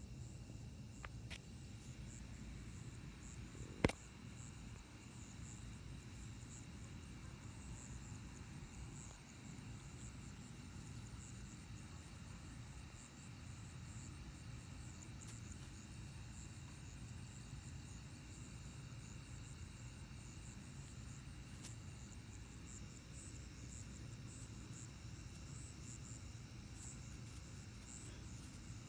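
A night-time chorus of crickets and other insects, with steady high pulsing calls over a low, even rumble. A single sharp click stands out about four seconds in.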